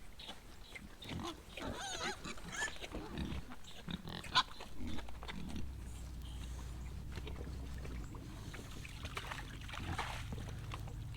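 Pigs grunting and squealing in short, scattered calls, with a few knocks among them, mostly in the first half.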